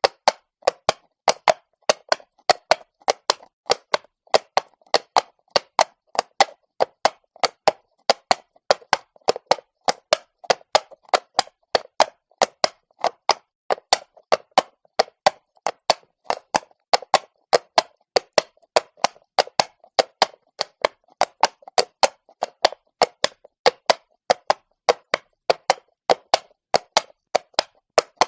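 Horse hooves clopping on cobblestone at a walk: sharp, even hoof strikes, about three a second.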